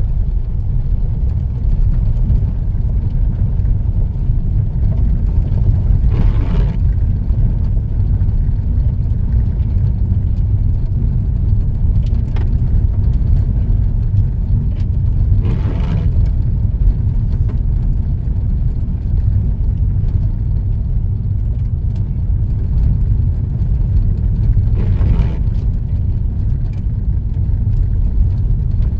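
Car driving along a rural road, heard from inside the cabin: a steady low rumble of road and engine noise. Three brief rushes of noise rise over it, about six, sixteen and twenty-five seconds in.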